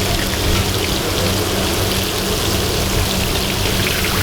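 Chapli kababs sizzling and crackling as they fry in hot oil, with a steady low hum underneath.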